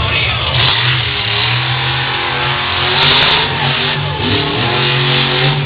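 Monster truck engine running hard and revving, its pitch stepping up and down.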